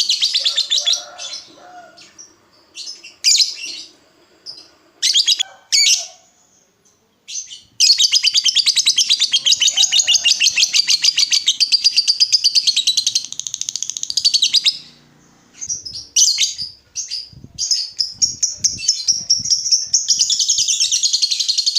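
Lovebird chattering in short bursts, then a long, rapid trilling chatter (the ngekek) lasting about seven seconds, followed by more short bursts and another long chatter near the end.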